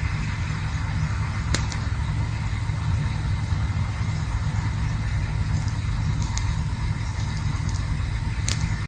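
Campfire burning: a steady low rumble with a few sharp crackles, the clearest about a second and a half in and another near the end.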